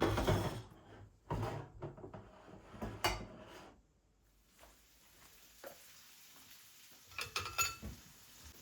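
Kitchen handling sounds: dishes and utensils set down and knocked, with a short clatter of ringing clinks near the end.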